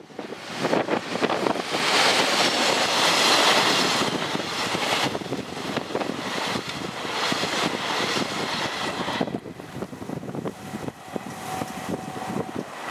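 JR Freight EF200 electric locomotive and its freight wagons loaded with long rails passing close by: a loud rush of wheel and rail noise with repeated clacks of wheels over rail joints, dying down after about nine seconds as the train moves away.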